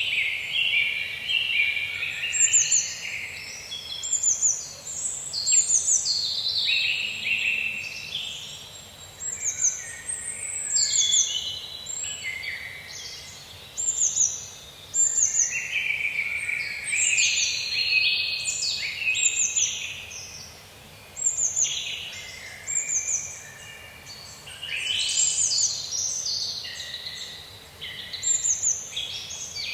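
Several songbirds singing and calling over one another in a forest, mixing quick high repeated notes with lower warbling phrases, without pause.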